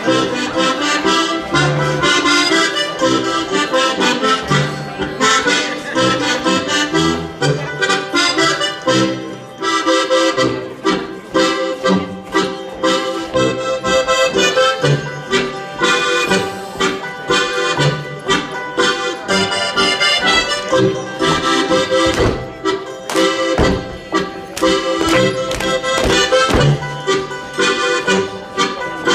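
Accordion playing a lively Bavarian folk dance tune for Schuhplattler dancing, with a quick run of sharp slaps and stomps from the dancers over the music.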